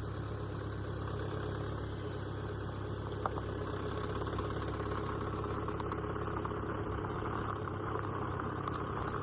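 An engine idling steadily just after starting, a low even hum, with a single light click about three seconds in.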